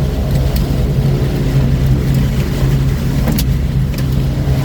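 Storm wind buffeting a pickup truck's cab, heard from inside, with scattered sharp ticks of small hail pellets striking it over a steady low hum.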